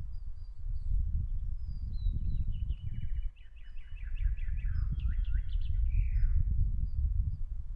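Wind buffeting the microphone in a low, gusting rumble, with songbirds: short high chirps repeated throughout, and a longer song phrase of falling notes from about two seconds in that ends in a downward flourish near six and a half seconds.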